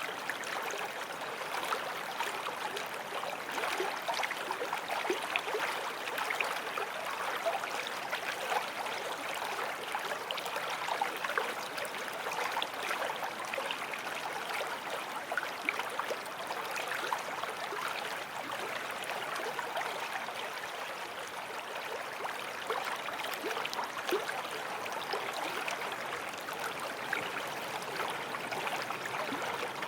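Forest stream flowing steadily over stones, a continuous rushing and babbling with small splashes and gurgles throughout.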